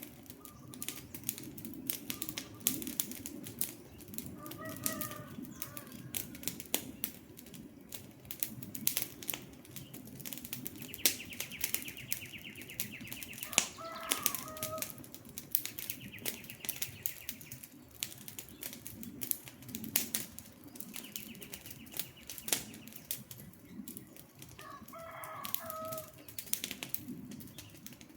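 Wood campfire burning with a low rumble and constant sharp crackles and pops. Birds call in the background: a few short warbling calls, and three times a fast, even trill.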